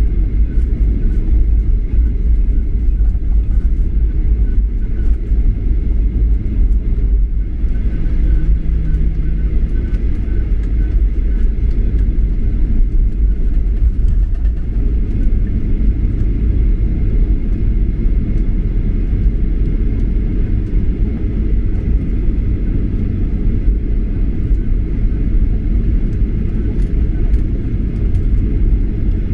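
Steady low cabin rumble of a Boeing 737-800 airliner in flight, unchanging throughout, with a faint high steady whine above it.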